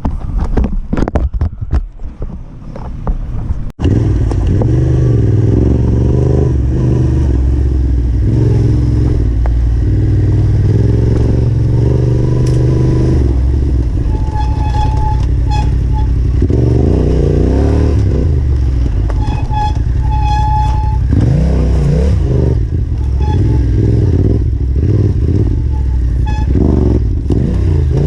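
Yamaha Ténéré 700 parallel-twin engine revving up and down as the bike is ridden on rough trail. The first few seconds are mostly clattering knocks with the engine in the background; after an abrupt cut the engine dominates, its revs rising and falling repeatedly.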